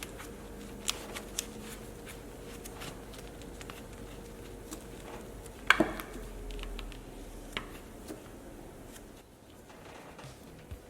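Hands-on car detailing handling sounds: a few light clicks and taps, with one sharp knock about halfway through, over a faint steady hum that fades soon after the knock.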